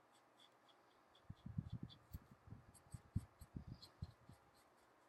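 Marker coloring on paper: faint, quick little strokes ticking about four or five times a second. A run of soft low thumps comes in the middle.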